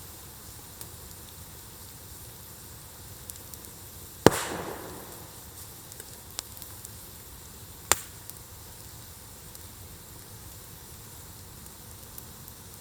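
Campfire burning with a steady low crackle, broken by a loud sharp pop about four seconds in that trails off over a second, a small snap, and a second sharp pop about eight seconds in.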